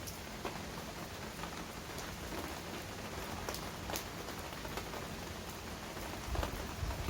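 Heavy rain falling steadily, with scattered sharp drops striking close by. A low rumble swells near the end.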